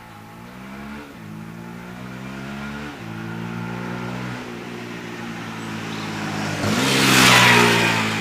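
A single-cylinder Yamaha MT-125 motorcycle engine accelerating through the gears: the revs climb and drop at upshifts about one and three seconds in, then run steadier. Near the end a loud rushing noise swells up and fades.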